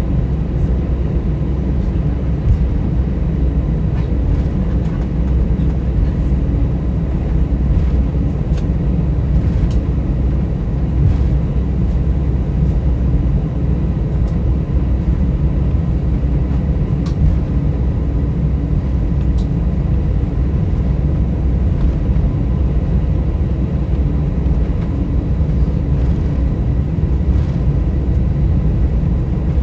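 Airbus A320 cabin noise during taxi: a steady low rumble from the engines at idle and the landing gear rolling on the taxiway.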